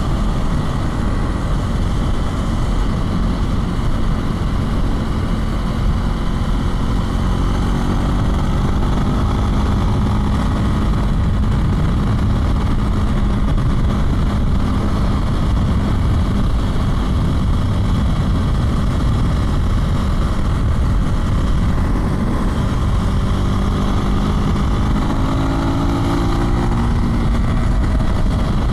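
Husqvarna Svartpilen 401's single-cylinder engine pulling the bike along at riding speed, heavily overlaid with wind rush on the microphone. The engine pitch shifts with throttle and gear changes, rising steadily near the end.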